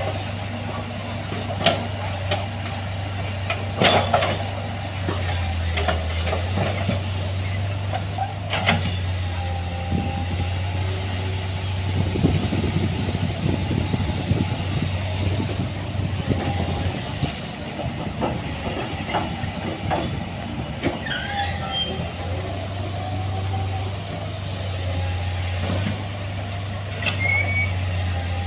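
Excavator's diesel engine running steadily under load, with scattered metallic clanks and knocks from the bucket and machine as it works, and brief high squeals.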